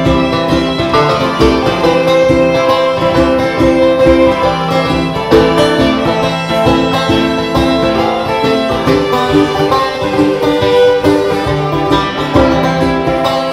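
Live acoustic string-band music, with plucked strings and fiddle playing a steady, bluegrass-style tune.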